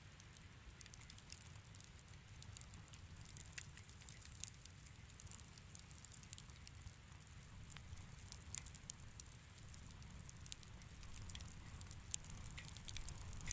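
Wood fire crackling in a fireplace: scattered small pops and snaps over a faint, steady low rumble, with one sharper pop near the end.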